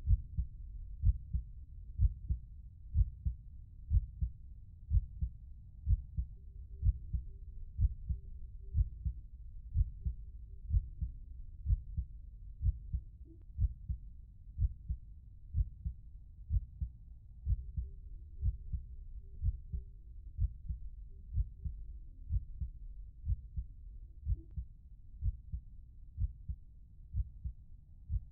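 Heartbeat: steady low double thumps, lub-dub, about one a second.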